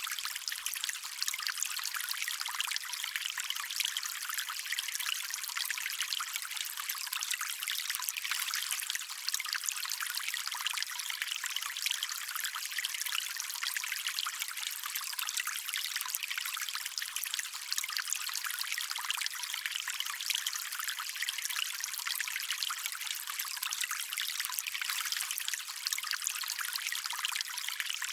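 Small stream trickling and running steadily, an even rush of water with no breaks.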